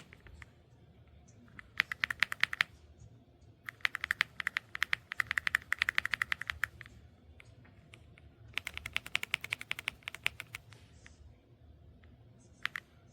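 Typing on an Aula F75 gasket-mount mechanical keyboard: three runs of fast keystrokes, each a couple of seconds long with short pauses between, then a few single key presses near the end.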